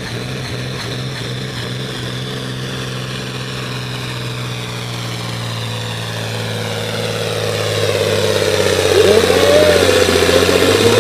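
Modified John Deere 4010 farm tractor pulling a weight-transfer sled, its engine running hard and steady under load. It gets louder about two-thirds of the way through as the tractor comes down the track.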